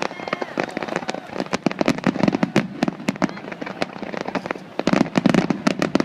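Aerial fireworks crackling and popping in rapid, dense volleys, with louder clusters about two seconds and five seconds in.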